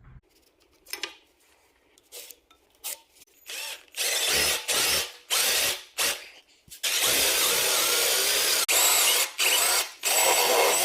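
A few faint clicks, then a handheld power tool working wood, started and stopped in several short bursts, then running for longer stretches with brief pauses.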